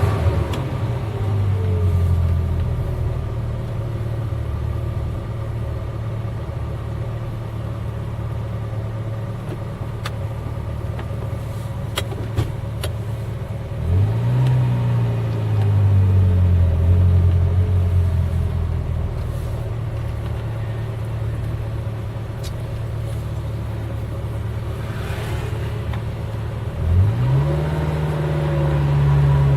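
Eight-cylinder car engine running under way, a steady low engine note. About halfway through, the pitch jumps up sharply as the throttle opens and then slowly sinks; near the end it climbs sharply again and holds.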